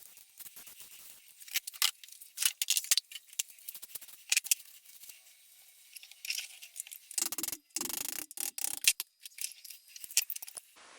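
Small metal parts of an 1800s monkey wrench clinking and rattling as it is taken apart, with a run of duller knocks about seven to nine seconds in.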